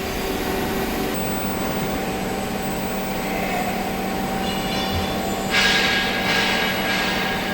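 A hydraulic wheel press's power pack runs with a steady hum and a thin high whine. Over the last two seconds, three loud hissing surges rise over the hum.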